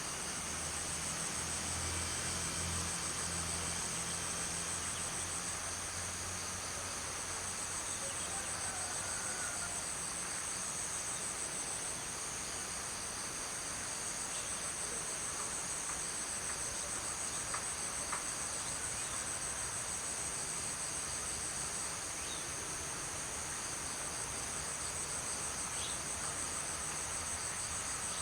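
A steady, high, finely pulsing chorus of insects chirring, with a faint low hum underneath for the first few seconds.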